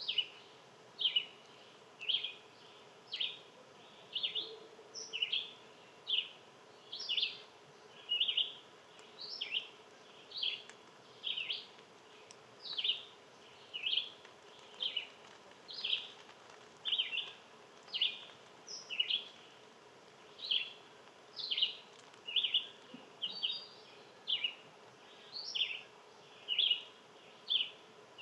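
A small animal's monotonous chip call, one short, sharp downward-slurred note about once a second, repeated steadily without a break.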